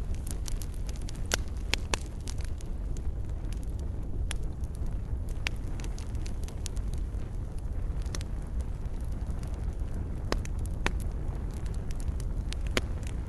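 Wood fire burning in a fireplace: a steady low rumble of the flames with irregular sharp crackles and pops, a dozen or so standing out.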